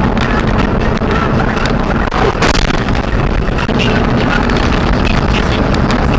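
Loud, steady vehicle driving noise with wind buffeting the microphone and scattered small knocks, with a brief louder burst about two and a half seconds in.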